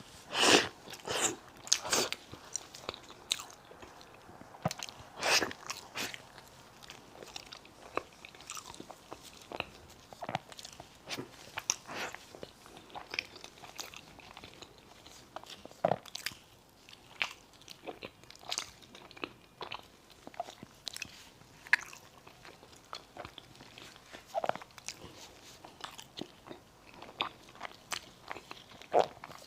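Close-miked eating sounds: bites, chewing and sharp wet mouth clicks and smacks as a chocolate-filled dessert is eaten.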